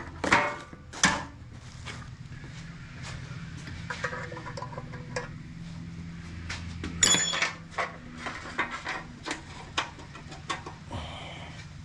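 Hand tools and metal parts clinking and knocking during work on a go-kart, with one bright, ringing metal clink about seven seconds in, over a steady low hum.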